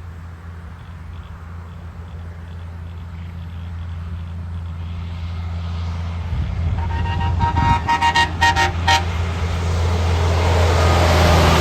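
A truck approaches, its engine growing louder. About seven seconds in it sounds its horn in a quick string of five or six short blasts, then passes close with a rising rush of engine and road noise.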